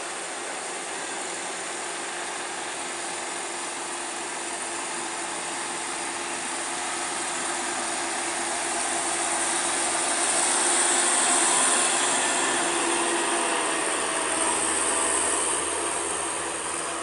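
Heavy truck engine and road noise on a steep climb, swelling louder about halfway through as it passes and then easing off.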